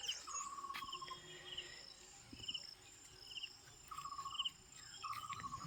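Insects chirping faintly in short trills that repeat every second or so, over a steady high-pitched buzz.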